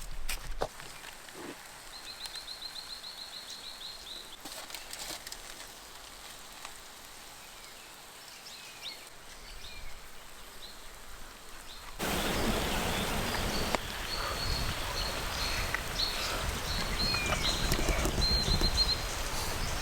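Wild birds calling in bushland: a rapid trill about two seconds in and scattered short chirps. About twelve seconds in, the sound changes abruptly to a louder steady rushing background with more high bird calls.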